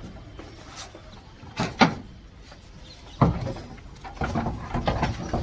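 Metal knocks and clanks as the engine is worked loose and pulled out: a sharp one about two seconds in, another just after three seconds, and a quicker run of knocks near the end.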